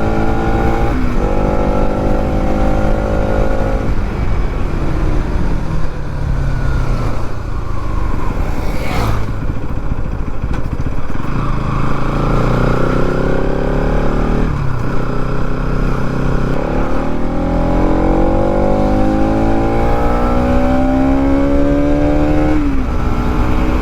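Bajaj Pulsar NS200's single-cylinder engine accelerating hard through the gears: the engine note climbs steadily, then drops at each upshift, three times, about four seconds in, around fourteen seconds in and near the end.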